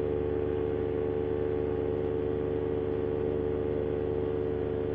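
Paramotor's Moster 185 single-cylinder two-stroke engine and propeller running at steady cruise throttle: an even, unchanging drone.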